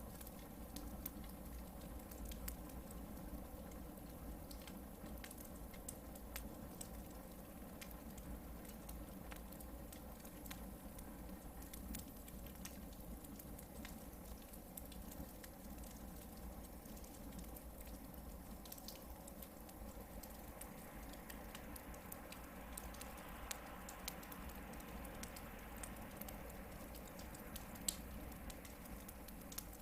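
Hardwood campfire burning, with scattered small crackles and pops over a low, steady background. A soft hiss comes up about two-thirds of the way through.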